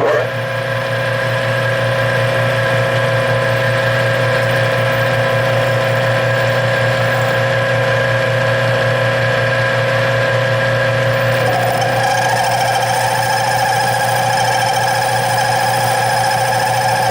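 Metal lathe switched on and running steadily with a motor hum and whine while turning an aluminium blank. About eleven seconds in, a wavering higher tone joins.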